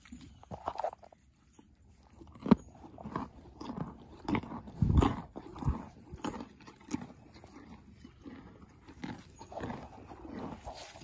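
Horse chewing close to the microphone: irregular wet crunches of teeth working food, with a sharp knock about two and a half seconds in and a heavier low thud around five seconds.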